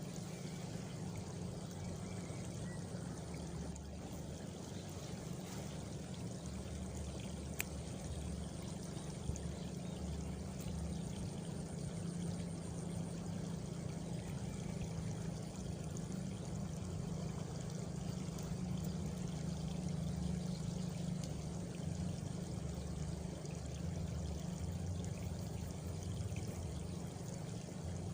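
Steady countryside chorus of frogs and crickets, a continuous even wash of sound. A faint, high, pulsing cricket trill runs for a few seconds about a third of the way in, and there is a single brief click near the start of that stretch.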